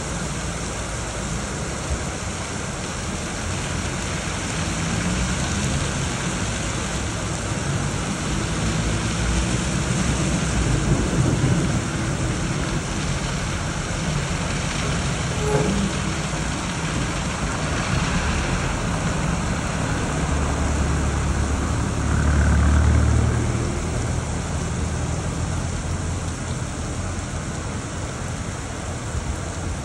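Heavy rain falling in a steady hiss, with low rumbles swelling up twice, about a third of the way in and again past two thirds.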